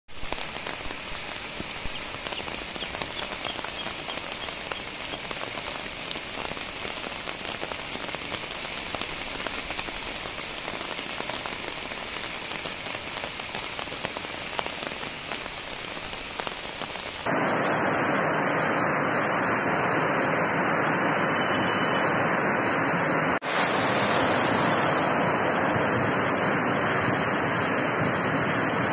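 Heavy rain falling steadily, a dense patter of drops. About 17 seconds in it cuts abruptly to a louder, steadier rush, which drops out for a moment near 23 seconds.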